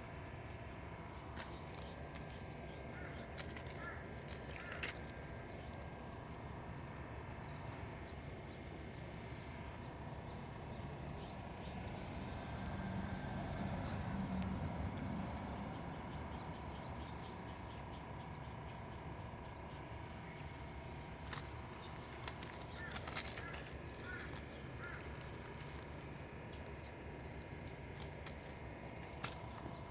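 Outdoor background with a small bird chirping repeatedly, about once a second, through the first half, and a low rumble that swells and fades around the middle.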